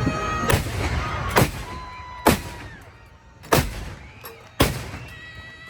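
Five loud cannon shots, about a second apart, over music playing in the background.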